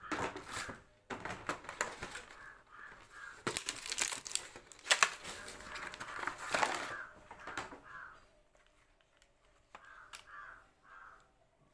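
Crinkling packaging and sharp handling clicks as sweets are laid on a platter, dying away after about eight seconds. Crows caw in the background, three short caws near the end.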